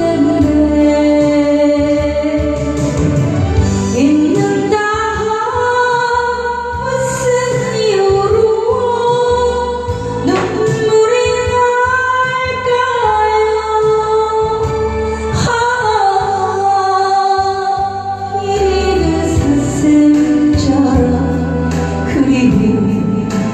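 A woman singing a Korean song over steady backing music.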